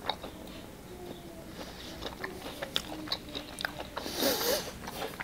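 A man chewing a piece of chicken gizzard, with small wet mouth clicks, and a short appreciative hum with a wavering pitch about four seconds in.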